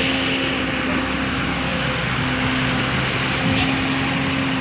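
Truck engine running steadily, a low hum with road and outdoor noise.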